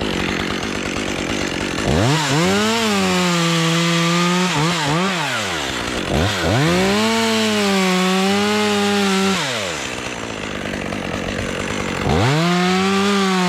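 Small top-handle climbing chainsaw revving to full throttle three times, each for a few seconds, as it cuts through a tree limb, dropping back toward idle between cuts.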